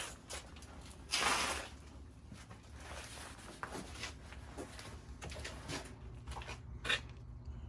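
Someone moving about and handling objects in a small basement: scattered knocks and clicks, a short scraping rustle about a second in, and a sharp knock near the end, over a low steady hum.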